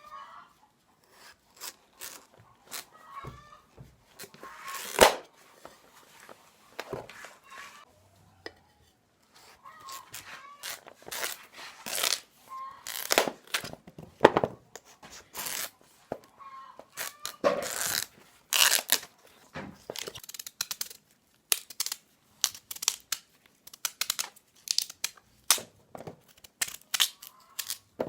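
Irregular rustling, crinkling and tapping of hands handling food and packaging during kitchen work, with several sharper clatters.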